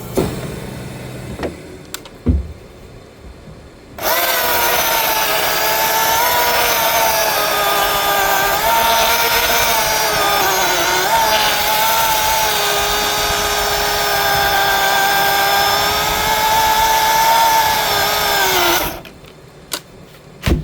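Milwaukee cordless battery chainsaw cutting through a tree limb: a steady electric whine that starts about four seconds in, dips in pitch as the chain bogs under load, and stops suddenly a second or two before the end. A few knocks and clicks come before and after the cut.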